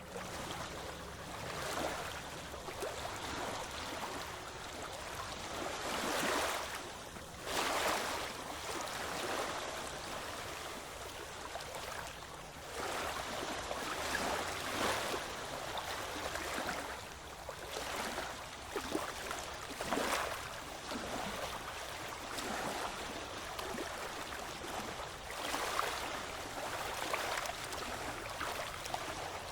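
Ocean waves breaking and washing ashore: a continuous wash of surf that swells into louder breakers every few seconds.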